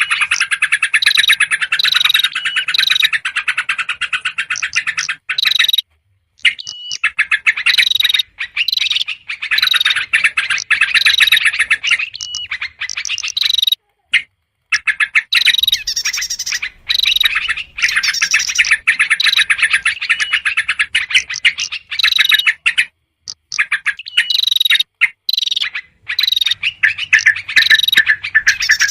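Excited, rapid chattering of yellow-vented bulbuls mixed with other small songbirds, the agitated 'ribut' calls used as a bird-trapping lure. The notes come in dense runs, broken by a few abrupt short gaps where the recording is spliced.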